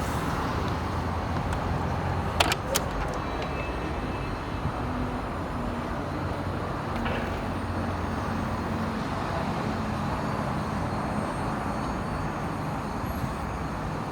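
Steady motor-vehicle noise, a continuous low hum, with a couple of sharp clicks about two and a half seconds in.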